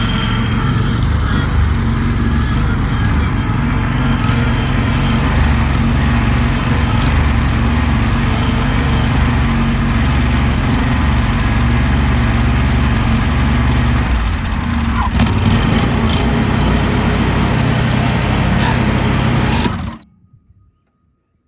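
A lawn mower's engine running steadily at speed, then stopping abruptly near the end.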